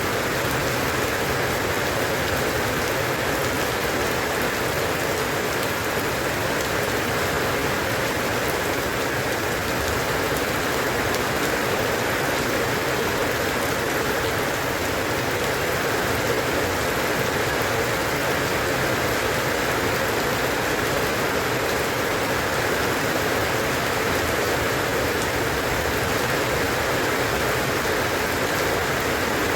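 Steady rain falling on a surface, a constant even hiss of many drops with no thunder or breaks.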